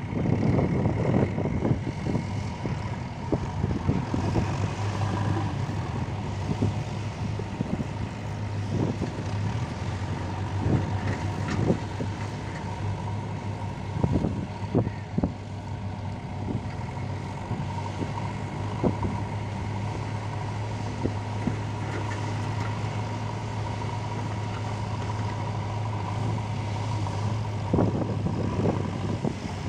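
JCB 3DX backhoe loader's diesel engine running steadily under work, with occasional sharp knocks scattered through it.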